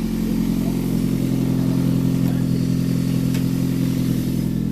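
Turbocharged car engine running at a steady speed while the clutch and freshly refaced pressure plate are tested. There is a single short tick about three seconds in.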